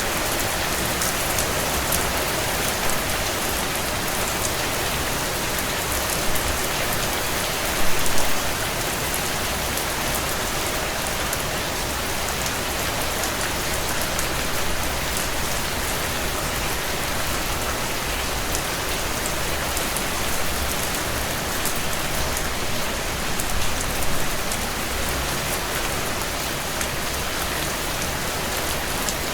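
Steady heavy rain on window glass, a dense even hiss with fine scattered ticks, swelling briefly louder about eight seconds in and again near the end.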